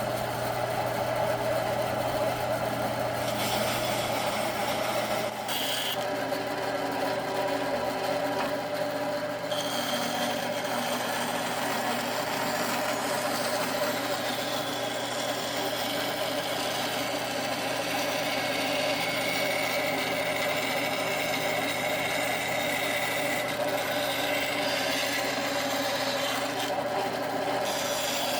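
Bandsaw running steadily while cutting small parts out of common pine board, a continuous hum with the rasp of the blade in the wood.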